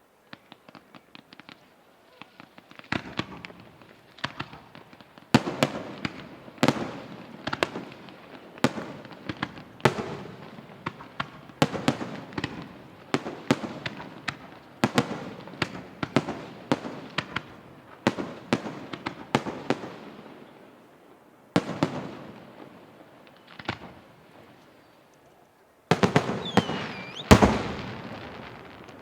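Aerial firework shells bursting in rapid succession: many sharp bangs, each trailing off, after a faint crackle at the start. The barrage thins out two-thirds of the way through, then ends in a dense final salvo with a whistling glide.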